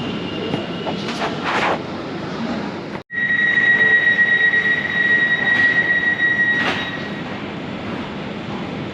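Elizabeth line train noise at an underground platform, a steady rumbling haze, broken by a brief drop-out about three seconds in. Then a steady high-pitched wheel squeal for about three and a half seconds.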